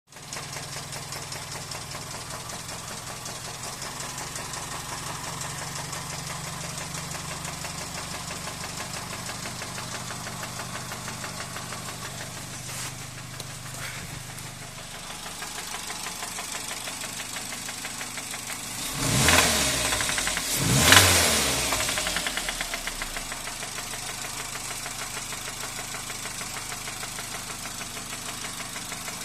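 Daihatsu K3-VET four-cylinder engine idling with a rapid, regular knock, revved briefly twice near two-thirds of the way before settling back to idle.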